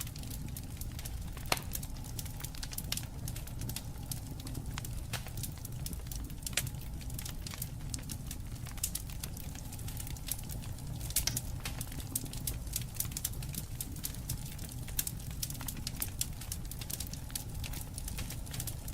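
Wood fire burning, crackling with irregular sharp pops over a steady low rumble of flame; one stronger pop about a second and a half in and a quick cluster of pops around the middle.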